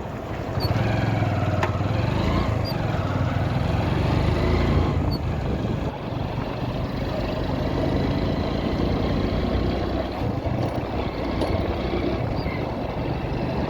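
Ordinary commuter motorcycle's engine running steadily while riding, with wind and road noise around it.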